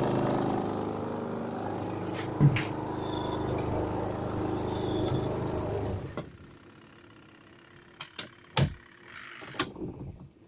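CAMEL twin-tub washing machine's spin motor running with a steady hum, the spin basket turning now that its start capacitor has been replaced, with a single knock about two and a half seconds in. The motor stops about six seconds in, and a few clicks and knocks follow near the end.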